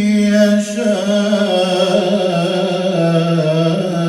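A male Quran reciter holding one long, drawn-out melodic vowel in tajwid chant. The pitch wavers gently and slides, with an ornamented turn about a second in.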